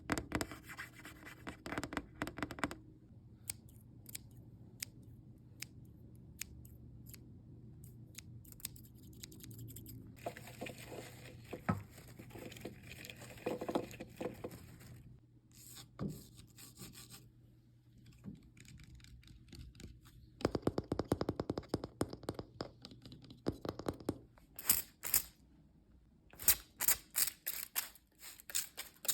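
Fingers tapping and scratching on assorted objects as ASMR triggers: scattered clicky taps, stretches of scratchy rubbing, and a fast run of sharp taps near the end.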